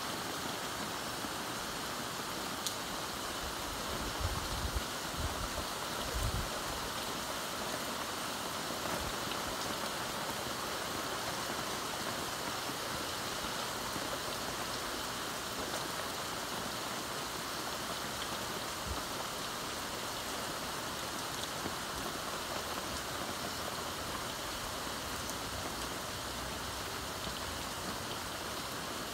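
Heavy thunderstorm rain falling steadily, a constant hiss of rain. A few brief low thumps come about four to six seconds in.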